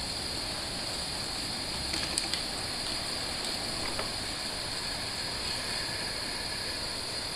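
Wind rumbling on the microphone under a steady high-pitched hiss, with a few faint ticks.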